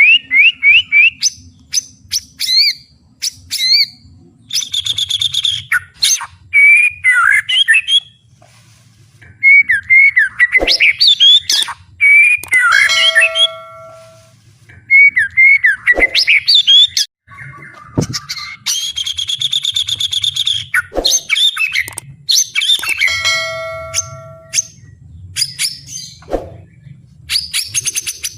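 White-rumped shama (murai batu) singing loudly, in a varied run of gliding whistles, held notes and rapid buzzy rattles, broken by short pauses between phrases.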